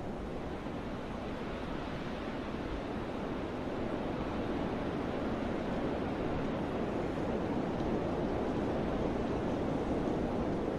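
Wind rustling through forest trees: a steady rush that swells a little about four seconds in.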